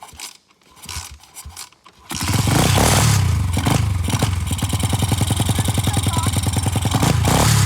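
A 125cc dirt bike engine being kick-started cold on choke: a few clattering kicks, then the engine catches about two seconds in and runs with a fast, even beat, revved briefly twice.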